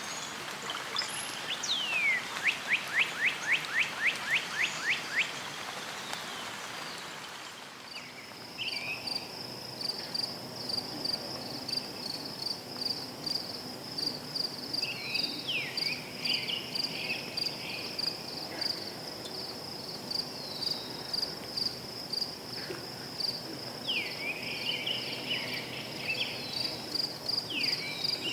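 Nature-sound recording: over a steady background hiss, a bird sings a quick trill of about ten down-slurred notes. About eight seconds in, the scene changes to crickets chirping in a steady fast pulse, with a bird's short descending calls now and then.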